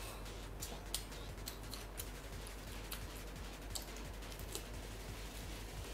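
Close-up eating sounds: irregular sharp mouth clicks and chewing as a person eats a nori-wrapped sushi roll and glass noodles, over a low steady hum.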